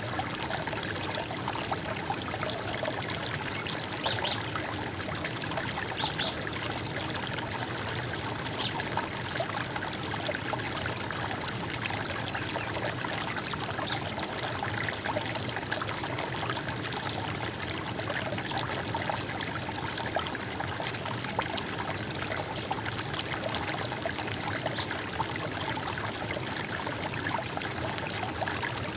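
Running water flowing steadily, an even, unbroken rush of water noise.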